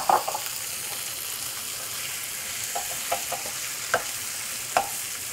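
Shrimp frying with sautéed onion and spices in a stainless steel skillet: a steady sizzle, with a wooden spatula knocking and scraping against the pan at the start and a few more times from about three seconds in.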